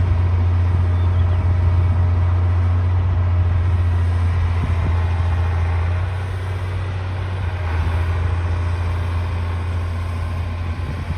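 D60 bulldozer's diesel engine running steadily with a deep, even drone, easing off slightly about six seconds in.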